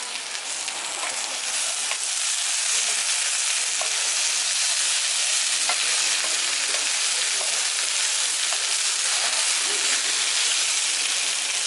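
Diced potatoes, onion and carrot frying in hot oil in a kazan: a steady sizzle that grows louder over the first two seconds, with a few light crackles.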